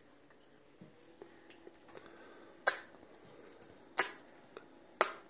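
Three sharp, short clicks from a baby at mealtime, about a second apart, each fading quickly.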